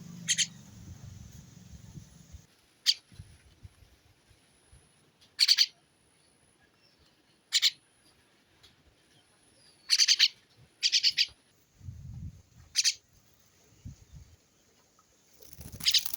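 A small bird giving short, sharp chirps, some doubled or tripled, at uneven gaps of one to three seconds, with a few faint low thuds between them.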